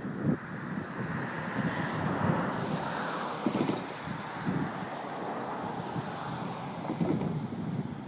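Florida East Coast Railway freight train rolling by with a continuous rumble and hiss, with irregular low thumps and wind buffeting the microphone.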